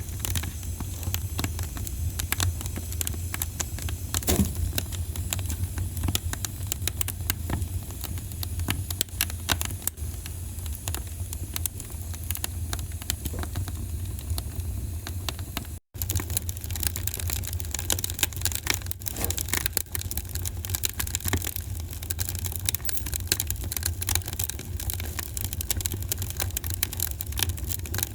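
Wood fire crackling in a fireplace: a dense, irregular run of small pops and snaps over a steady low rumble. The sound cuts out for a split second a little past halfway, then resumes unchanged.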